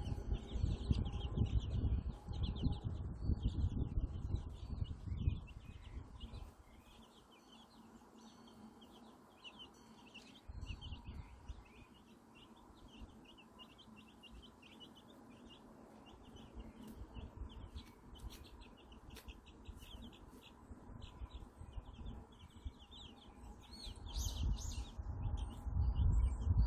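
A brood of newly hatched white silkie chicks peeping continuously in quick, high chirps. A low rumbling noise runs under them for the first six seconds and comes back near the end.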